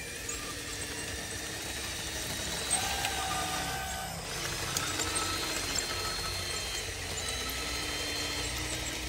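Electric motors and gearboxes of radio-controlled construction machines whining, several tones starting, stopping and shifting in pitch over a steady hiss, with a few small clicks.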